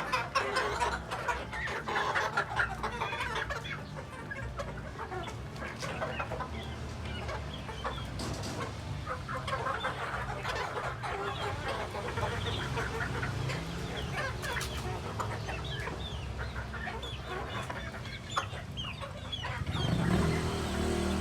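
Chickens clucking in short, scattered calls, a Tornado hatch gamefowl pullet among them. A louder low sound comes in near the end.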